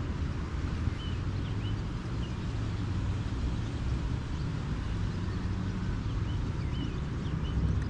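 Steady low hum of a bass boat's motor running, with short bird chirps faintly over it.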